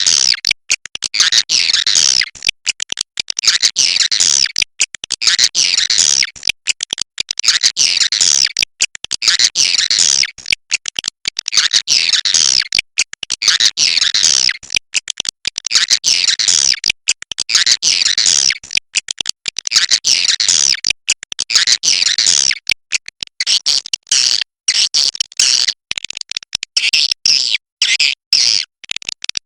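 Swiftlet roosting ('inap') lure call: dense, high, chattering twitters in repeated bursts about every two seconds, each sweeping downward, with short breaks between them. Near the end the bursts come shorter and choppier.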